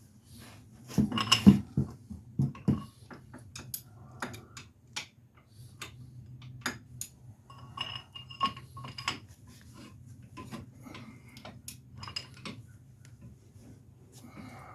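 Metal hand tools and car brake parts clinking and knocking in irregular handling, with a loud cluster of clanks about a second in and a few ringing metal taps later on. A steady low hum runs underneath.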